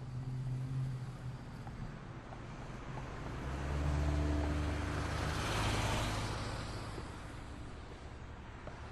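City street traffic: a motor vehicle drives past, its engine hum and tyre noise swelling to a peak about five to six seconds in and then fading, over a steady background of traffic noise.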